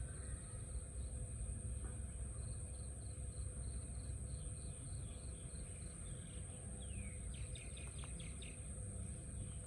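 Insects calling outdoors: a continuous high-pitched drone with a repeating chirp at about four a second over it. About seven seconds in, a short bird call of several quick falling notes joins in, with a steady low rumble underneath.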